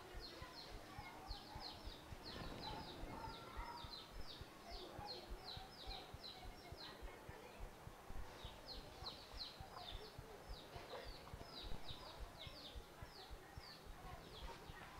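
A small bird calling in a fast series of short, falling high chirps, about three a second. It pauses for a second or so about seven seconds in, then carries on. The chirps are faint.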